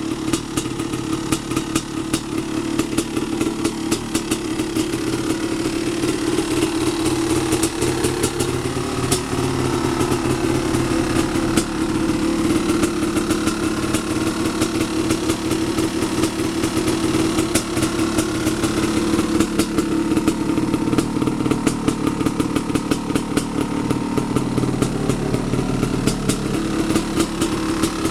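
1989 Honda CR500's 500 cc single-cylinder two-stroke engine running steadily at a fast idle, its pitch lifting slightly a couple of times. The engine is running on its original 23-year-old piston after sitting unstarted for over a year.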